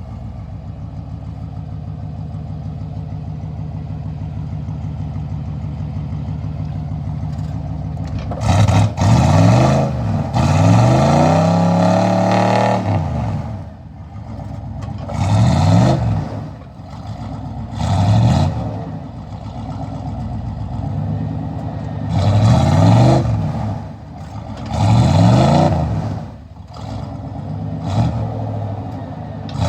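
Off-road vehicle engine idling steadily for about eight seconds, then revved hard about six times, each rev rising and falling in pitch, as the driver throttles to work through mud.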